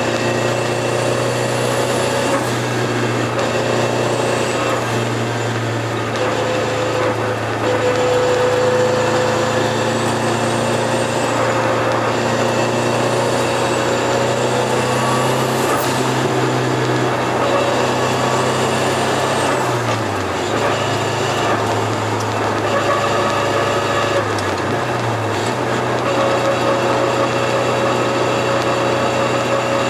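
Turbocharged Toyota AE86 engine running under light load while driving, with the turbo's faint high whistle rising and falling about six times as it spools up and down. The engine note dips briefly twice in the second half.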